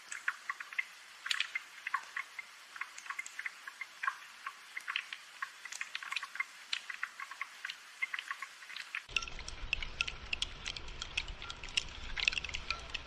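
Rain dripping and pattering: a dense, irregular run of small drops and taps. About nine seconds in, a fuller, lower rain sound joins them.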